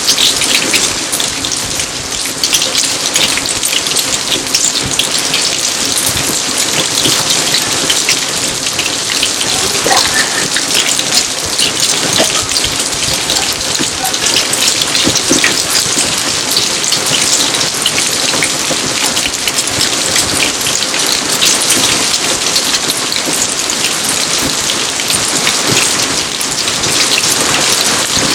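Steady rain falling on garden surfaces: an even, dense hiss made of countless small drop impacts.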